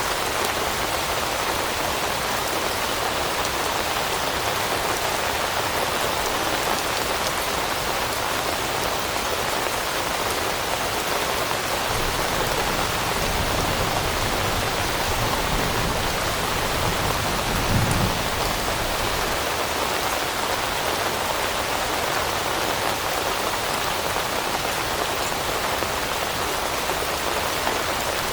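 Steady rain falling on leaves, an even hiss with no pauses. A low rumble swells through the middle and peaks briefly about two-thirds of the way through.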